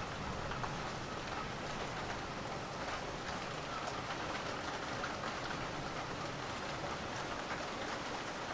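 Steady thunderstorm rain falling, with many individual drops ticking.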